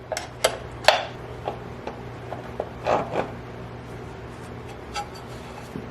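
Hand work on a chainsaw's clutch side: a few light metal clicks and knocks in the first second, a short scrape about three seconds in, and scattered small ticks as the parts are handled.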